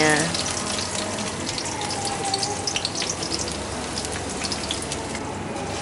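Sliced shallots and garlic sizzling in hot cooking oil in a wok: a steady frying hiss with fine crackles.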